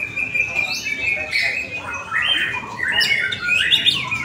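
White-rumped shama (murai batu) song: a fast, unbroken run of varied whistled and chattering phrases, dense and busy, as in a songbird contest.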